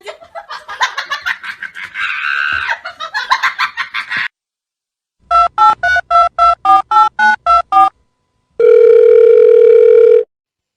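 Telephone keypad tones: ten quick two-note beeps, a number being dialled, followed by one steady phone tone of about a second and a half, like a ringback tone. Before them, a few seconds of jumbled clicks and chirps.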